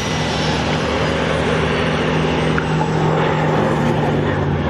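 Westland Lysander's radial piston engine and propeller droning steadily as it flies low and slow in a display.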